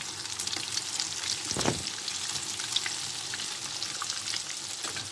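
Zucchini fritters sizzling and crackling in shallow frying oil in a pan, with one louder crackle about one and a half seconds in. The sound cuts off abruptly at the end.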